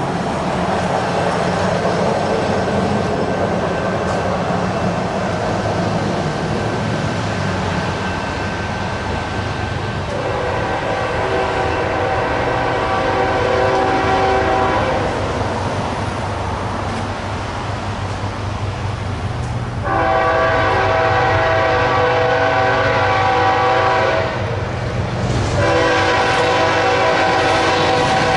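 Train horn sounding three long blasts over the steady drone of the moving train. The first comes about ten seconds in, the second about twenty seconds in, and the third starts shortly after and is still sounding at the end.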